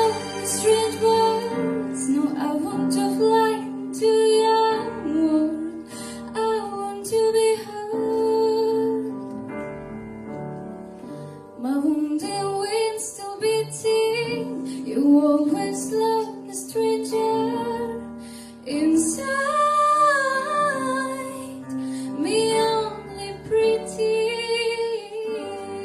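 A slow piano ballad with a woman's voice singing long wordless notes over held piano chords.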